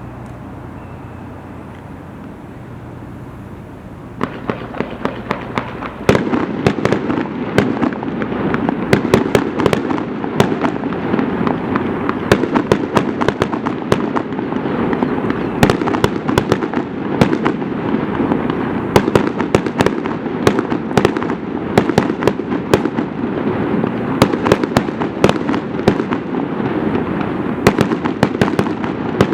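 Aerial fireworks going off. After a few seconds of steady low background noise, sharp cracks begin about four seconds in. At about six seconds they become a dense, continuous barrage of bangs and crackling, like a rapid-fire salvo.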